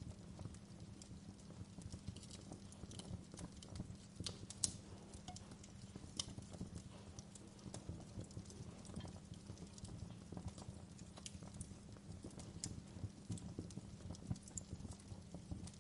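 Wood fire in a fireplace crackling softly: irregular small snaps and pops over a steady low rumble, with one sharper pop about four and a half seconds in.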